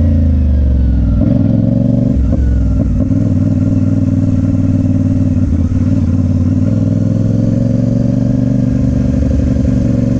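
Motorcycle engine heard from the rider's seat, its pitch falling over the first second or so as it slows, then running steadily.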